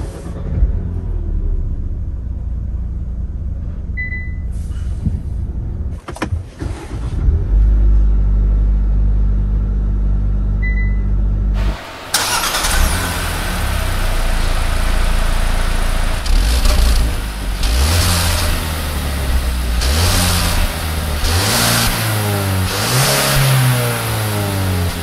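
2024 Kia Sportage engine idling with a low, steady hum, with a few clicks and two short high beeps. About halfway the sound changes suddenly and a steady hiss comes in. The engine is then revved in several short blips, its pitch rising and falling.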